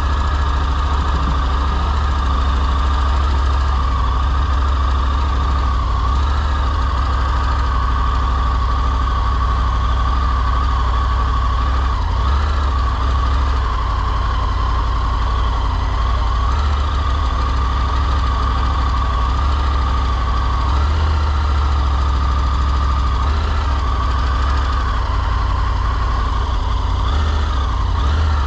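Motorcycle engine running steadily, rising in pitch right at the end.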